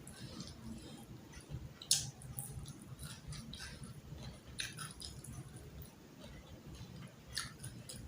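A person chewing and biting food close to the microphone: wet mouth sounds with scattered sharp crunches, the loudest about two seconds in.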